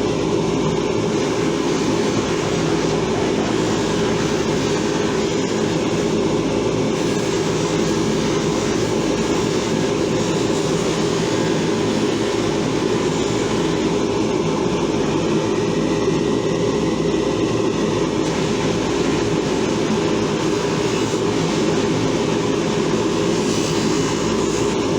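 Electric buffing wheel running steadily with an even hum while the pliers are polished on it.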